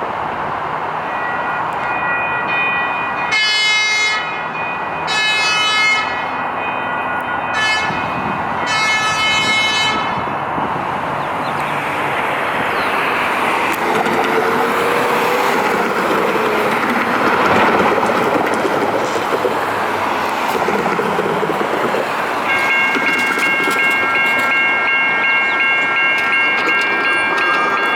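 Light rail train sounding its horn in the grade-crossing pattern, long, long, short, long, then passing with a loud rush of wheels on rail. A steady high tone starts near the end.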